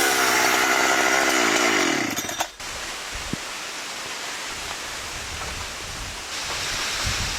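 Chainsaw engine running, its revs falling steadily for about two and a half seconds before it cuts off abruptly. A steady hiss follows.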